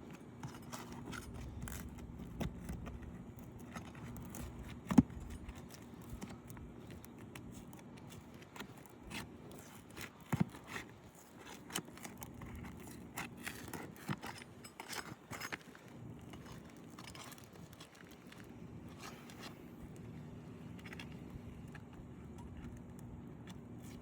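Metal roofing tool scraping and clicking against asphalt 3-tab shingles as a shingle is worked loose for repair, in scattered short strokes, with a sharp knock about five seconds in and another about ten seconds in.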